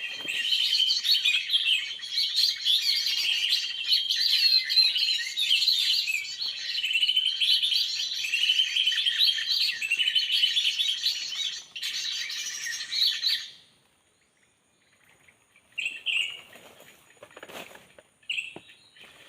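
Dense, rapid chirping and twittering of small birds that stops abruptly about two-thirds of the way through, followed by a few brief chirps.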